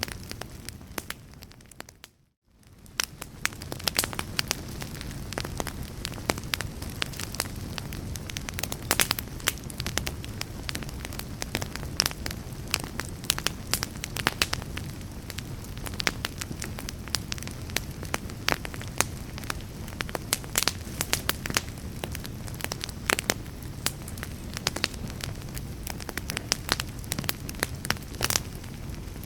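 Wood fire crackling, with frequent sharp pops over a steady low rumble. About two seconds in, the sound fades briefly to silence, then comes back.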